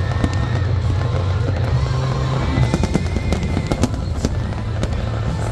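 Fireworks display: many sharp cracks and crackles over a continuous low rumble.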